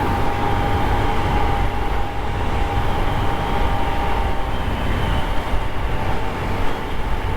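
Honda CT125's single-cylinder engine running at a steady cruise with constant road and air rush, a steady hum held through.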